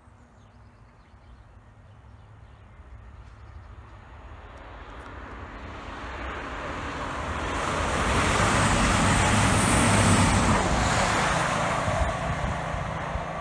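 Class 220 Voyager diesel-electric multiple unit approaching and passing at speed: the hum of its diesel engines and the rush of wheels on the rails grow steadily louder, are loudest about eight to ten seconds in, then begin to fade.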